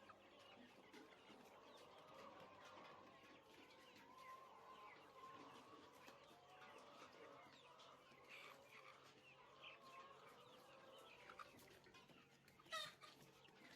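Faint, continuous chatter of a poultry flock: many overlapping cheeps and peeps, with one louder call near the end.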